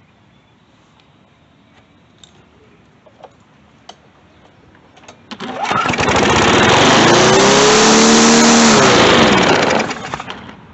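A few light clicks, then a Briggs and Stratton 148cc lawn mower engine starts about five seconds in and runs loud for about four seconds, its pitch rising and then falling before it winds down near the end. It is running too fast after a throttle linkage adjustment.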